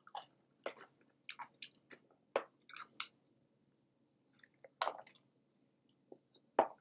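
A person chewing and biting into a soft cheeseburger close to the microphone: irregular short mouth smacks and clicks with brief pauses between them.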